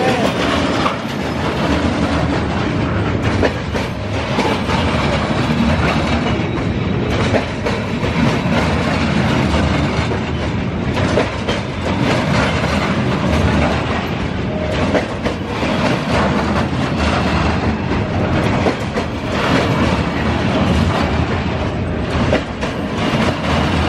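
Train passing close by: steel wheels rolling over the rail in a steady, loud rumble, with a dense run of clicks and clatter from the wheels.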